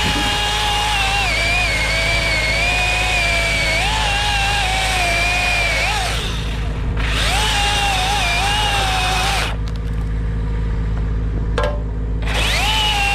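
Chainsaw running under load, its pitch wavering up and down as the chain bogs and recovers in the cut. The sound drops away briefly about six seconds in, and again for a few seconds near the end before picking back up.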